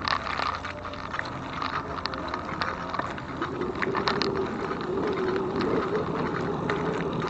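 Riding noise of an e-bike on a trail: steady rush of tyres and wind, with many small rattling clicks. A steady hum joins about three and a half seconds in.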